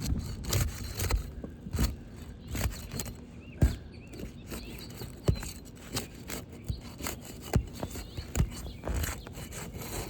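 Irregular scraping and rubbing on asphalt roof shingles, with a few sharp clicks, as shingle tabs are handled and lifted to check whether they are sealed down.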